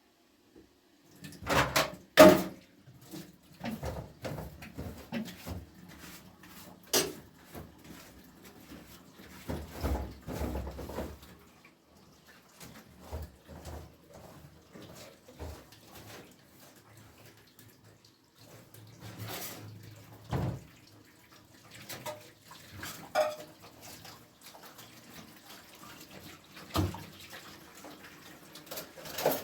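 Water splashing as things are washed or handled by hand, with scattered knocks and clinks, the loudest about two seconds in.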